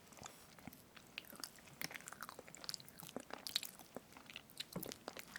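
Close-miked chewing of strawberry whipped-cream cake: faint, scattered wet mouth clicks and crackles, a little busier about halfway through.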